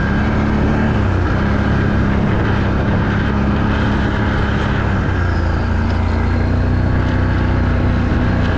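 ATV engine running under load, its pitch stepping up and down a few times as the throttle changes.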